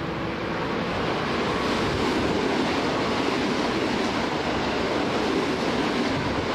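An electric commuter train running through the station platform at speed, a steady rushing rumble of wheels on rail that builds over the first second or two as it arrives alongside.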